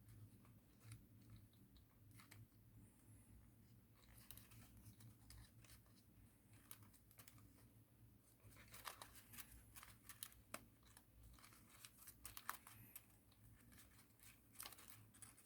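Faint rustling and crinkling of thin origami paper being folded and creased by hand, with small crisp crackles that cluster in the second half.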